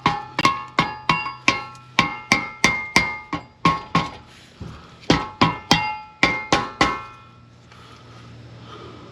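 Hammer blows on ringing metal, about three a second, with a short pause in the middle; the blows stop about seven seconds in.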